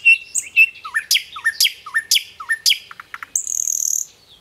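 Songbirds calling: a quick run of short high chirps, then a series of swooping calls about twice a second, ending with a short harsh, rasping call.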